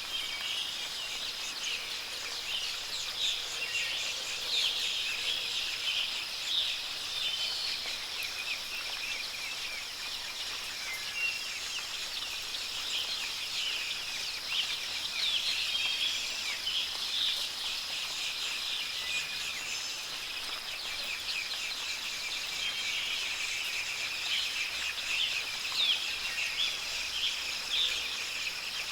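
Many wild birds chirping and calling in short, overlapping notes over a steady high-pitched insect drone.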